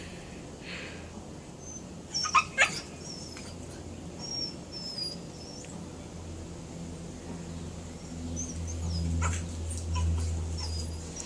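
Small birds chirping: short, high, squeaky notes scattered throughout. Two sharp clicks about two seconds in, and a low rumble that swells near the end.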